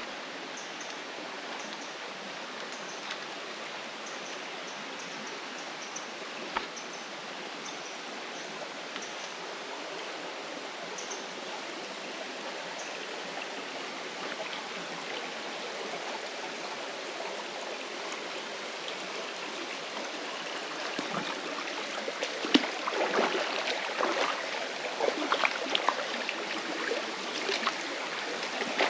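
Mountain stream rushing and babbling steadily over rocks. In the last several seconds closer, splashier gurgling stands out.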